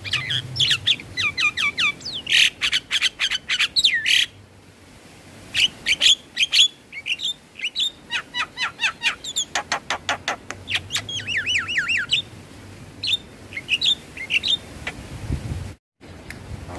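Javan myna calling: rapid runs of sharp clicking chatter mixed with gliding whistled notes, with a short lull about a quarter of the way in. The sound cuts out completely for a moment near the end.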